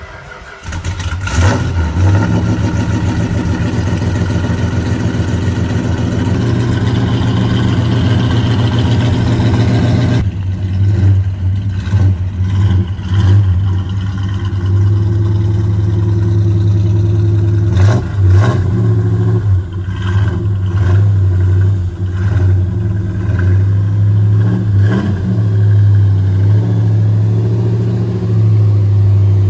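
A 1968 Dodge Charger R/T's V8 cold starts about a second in and runs loud and rough. Its sound changes suddenly about ten seconds in, and brief swells in engine speed follow later on.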